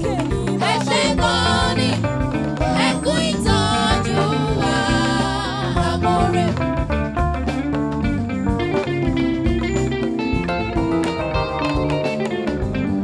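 Gospel band music with guitar, bass and percussion keeping a steady beat; in the first half a voice sings wavering, ornamented runs, then held notes carry on.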